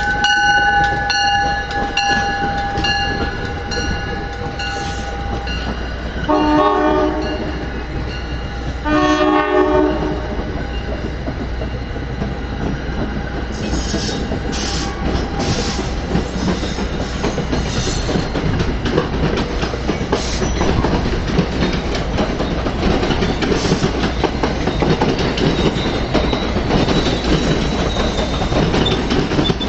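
NJ Transit commuter train pulling into a station with a Comet IV cab car leading. Its horn holds one blast for about the first five seconds, then gives two short blasts about six and nine seconds in. After that come the steady rumble and wheel clatter of the train rolling in, growing somewhat louder near the end.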